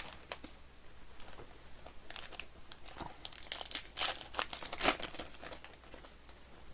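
Plastic shrink wrap crinkling and tearing as it is pulled off a sealed trading-card hobby box, in irregular crackles with the loudest rips about four and five seconds in.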